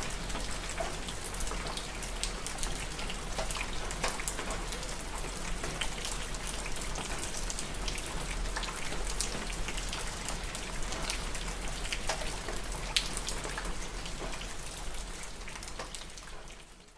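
Steady rain, with many distinct drops striking close by. One sharper drop stands out late on, and the rain fades out at the very end.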